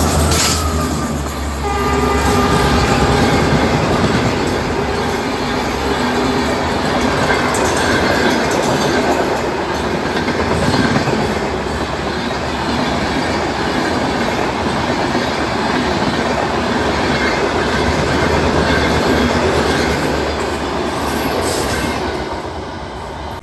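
Indian train passing close at speed: a steady loud rush of wheels on the rails lasting about twenty seconds. A horn tone sounds in the first couple of seconds, and the rush drops away just before the end.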